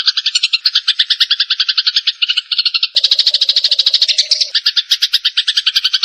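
Eurasian tree sparrows chattering in a rapid, unbroken string of harsh chirps: the agitated calls of sparrows fighting. The pattern changes abruptly about three seconds in.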